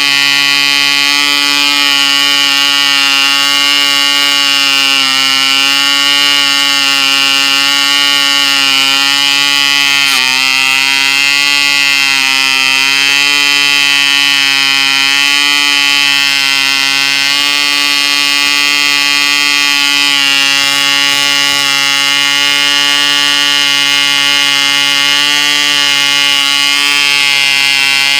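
Cipolla 1.5cc Junior glow engine running flat out, turning an 8x6 propeller: a loud, steady high-pitched buzz whose pitch wavers slightly, with a brief dip about ten seconds in.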